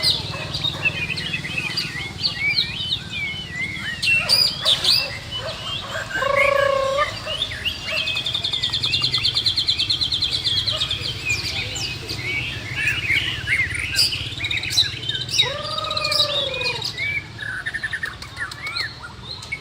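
Several white-rumped shamas singing at once: dense, varied whistles and chatter overlapping throughout, with a fast rattling trill held for about three seconds near the middle.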